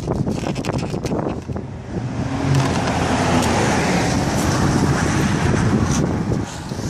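A road vehicle passing by: tyre and engine noise swells from about two seconds in and fades near the end, over steady low traffic rumble.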